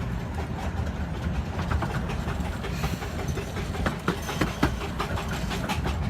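Romney, Hythe & Dymchurch 15-inch-gauge miniature railway carriage running along the line: a steady low rumble with irregular clicks and knocks from the wheels on the track, heard from inside the carriage with the window open.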